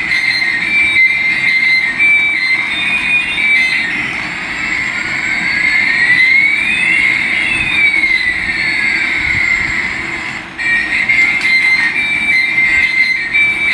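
Electronic sound effects from a battery-powered toy: a steady hum with a high tone that steps up and down, and about halfway through a rising and a falling whistle that cross each other.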